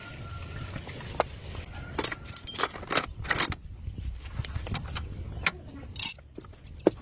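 Irregular sharp metallic clinks, knocks and short jangles, like metal parts or tools being handled, over a steady low hum.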